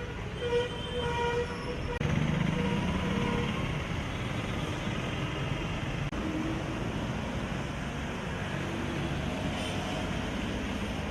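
Road traffic with a steady rushing noise, and a vehicle horn honking several times in the first few seconds.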